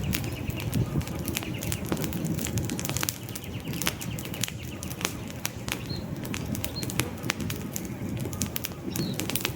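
Wood campfire burning, with irregular sharp crackles and pops over a low, steady rustle of flame. A few faint, short high chirps come in the second half.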